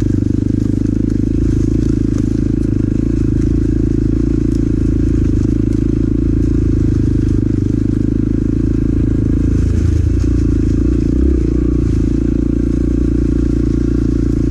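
Motorcycle engine running steadily at low speed on a trail ride, heard through a helmet microphone, with a brief change in engine note about ten seconds in.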